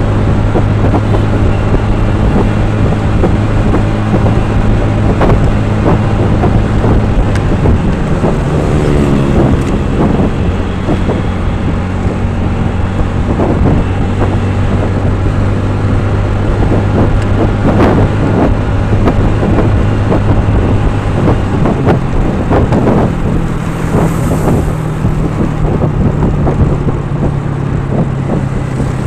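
A vehicle engine running steadily with road noise, its pitch stepping up slightly a little past two thirds of the way through. Briefly, about nine seconds in, a sweep of sliding pitch passes by.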